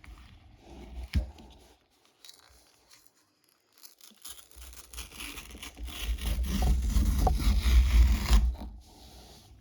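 Cardboard mailer envelope being torn open along its pull-tab strip: some handling and a sharp tap about a second in, then a long, rough ripping that is loudest in the second half.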